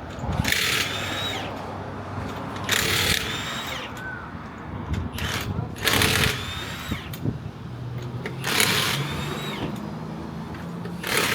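Power impact wrench run in short bursts on wheel lug nuts, about five bursts, each ending in a whine that falls as the tool spins down.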